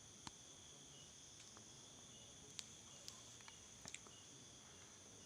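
Near silence with a faint steady chorus of night insects, and a few small sharp clicks, the loudest about two and a half seconds in.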